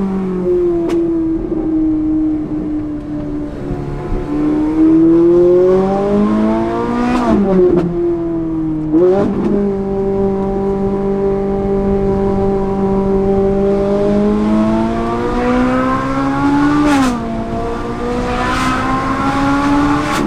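Straight-piped Ferrari 458 Italia's V8 being driven, its exhaust note rising and falling with the throttle. The pitch drops sharply three times, about seven, nine and seventeen seconds in, each drop marked by a short crack.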